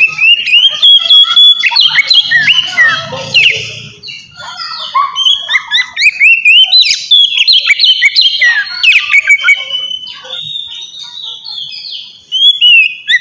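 Oriental magpie-robin (kacer) singing loudly in a fast, varied run of whistles and rising and falling chirps. The song dips briefly about four seconds in.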